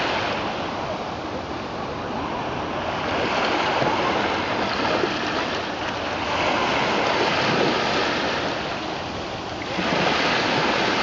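Red Sea waves washing onto the shore, the surf swelling and easing in repeated surges every three to four seconds.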